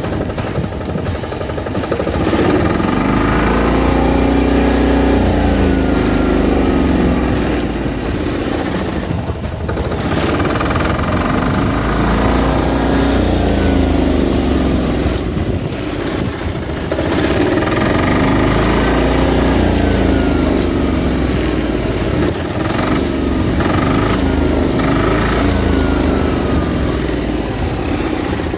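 Engine of a used farm machine running, its pitch and loudness swelling and falling back several times as the machine is put through an operation check, with a few faint falling whines above it.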